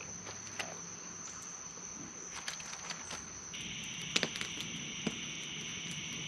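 Crickets in a steady, high-pitched night chorus. A second, lower insect trill joins about three and a half seconds in. Scattered small clicks and crackles run through it, the sharpest a little after four seconds.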